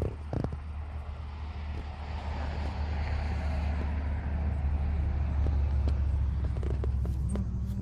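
A road vehicle passing by: a low rumble with tyre-like noise that swells over the middle seconds and eases toward the end, with a few light clicks.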